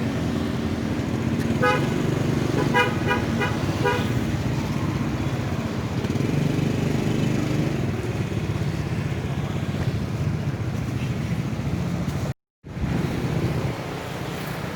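Road traffic with a vehicle engine running and a series of short horn toots about two to four seconds in. The sound cuts out abruptly for a split second near the end.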